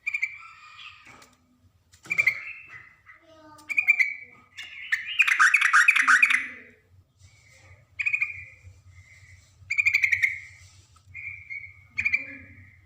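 Sooty-headed bulbuls calling in short, bubbly phrases every second or two, with a louder stretch of fast chattering about five seconds in that lasts some two seconds. The agitated exchange is typical of bulbuls squabbling.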